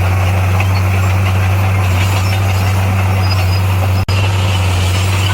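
Heavy earthmoving machine's diesel engine running at a steady, even speed, with a low hum. The sound drops out for an instant about four seconds in.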